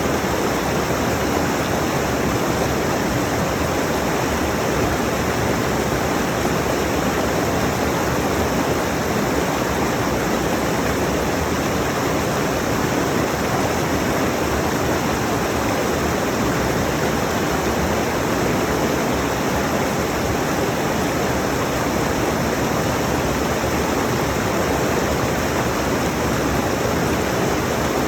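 Rushing mountain stream, water tumbling over rocks in a steady, unbroken rush.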